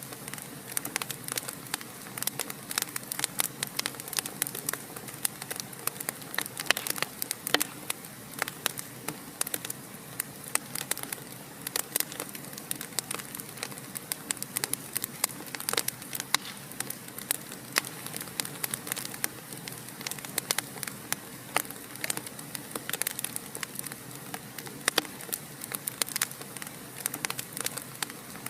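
Wood fire burning in a fireplace, with dense, irregular crackles and pops over a soft steady hiss.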